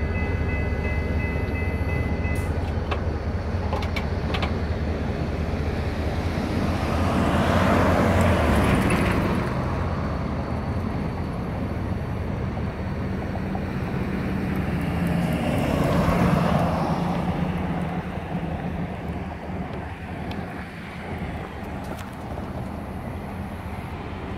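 Diesel freight locomotive going by: its horn sounds and cuts off about two seconds in, while a low engine rumble carries on. Two louder swells of rolling noise come around eight and sixteen seconds in, and the sound fades near the end.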